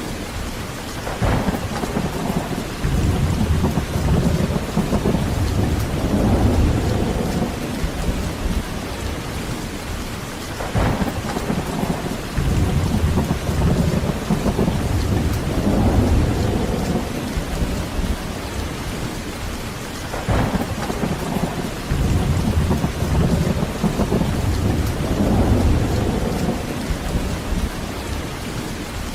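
Heavy rain falling steadily, with rolling thunder. Three times a short crack is followed by a deep rumble that swells for a few seconds and fades away.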